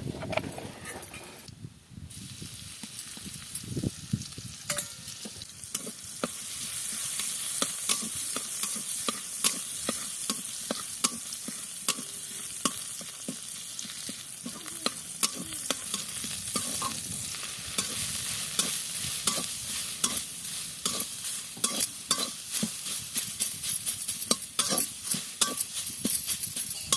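Leafy greens (sunsunia saag) sizzling as they fry in a pan, stirred with a spatula that clicks and scrapes against the pan again and again. The sizzle grows louder about six seconds in.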